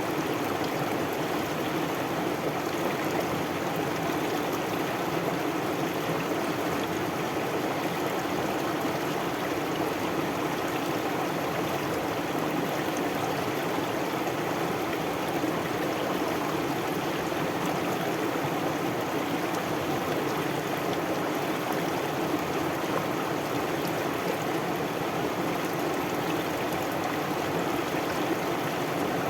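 Stream water flowing steadily, an even rushing and babbling.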